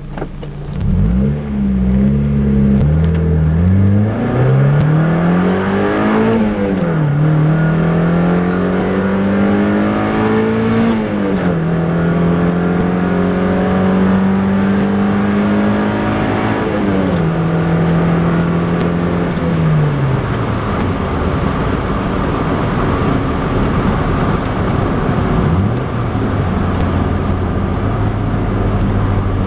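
A 1992 Mazda Miata's four-cylinder engine through a Borla cat-back exhaust, heard with the windows down. The engine note climbs and drops back at each gear change a few times, holds steady for several seconds, steps down twice, then settles into a low steady drone with two brief blips of the throttle near the end.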